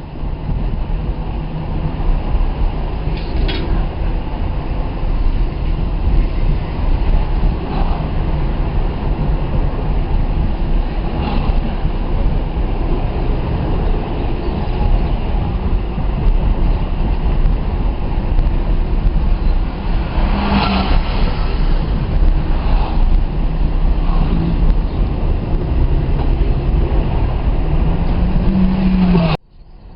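Road and engine noise inside a moving car: a steady low rumble with hiss over it, cutting off suddenly near the end.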